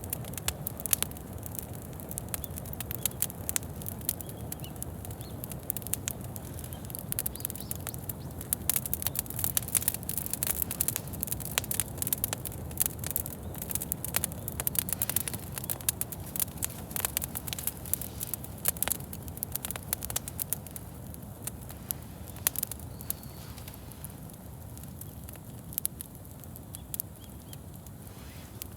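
Wood campfire crackling: frequent sharp pops and snaps over a steady low rumble of the burning fire, the pops thinning out a little near the end.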